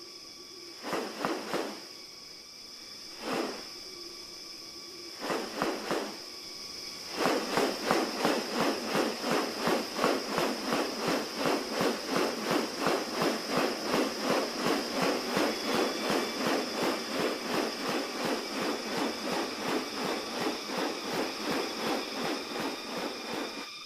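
Forest ambience with a steady, high insect drone. Over it come a few short rattling bursts, then from about seven seconds in a fast, even pulsing at about three beats a second that weakens slightly near the end.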